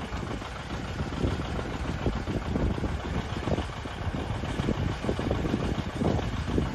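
Tractor engine running at a steady speed, with uneven knocking and clatter mixed in.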